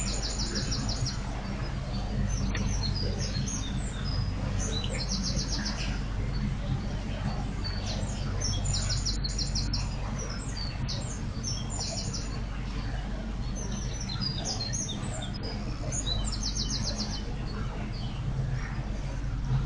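Songbirds calling in short bursts of rapid high trills, about four times, over the steady low hum and wash of water from an electric narrowboat's propeller.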